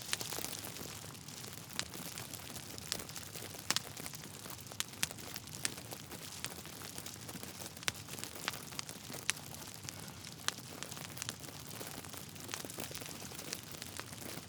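Log fire crackling: a steady soft hiss with irregular sharp pops and snaps, several a second, a few of them louder.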